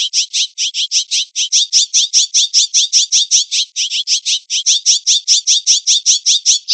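A jay giving a rapid, unbroken run of harsh, high-pitched squawks, about six a second.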